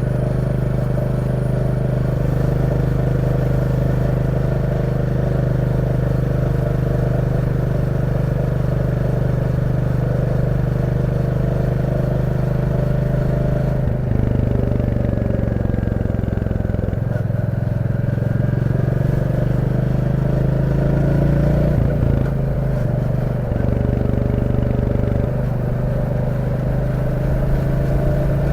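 Royal Enfield Classic 350's single-cylinder 349 cc engine running under way, heard from the rider's position. Its pitch drops and climbs a few times from about halfway through as the throttle and gears change.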